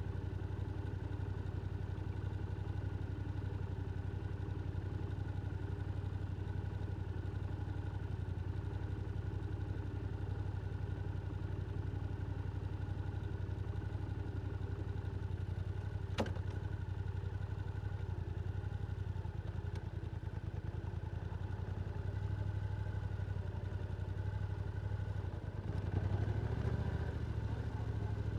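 Yamaha R7 motorcycle's parallel-twin engine running steadily through an Akrapovic exhaust. There is a single sharp click about sixteen seconds in, and the engine note gets louder and changes near the end.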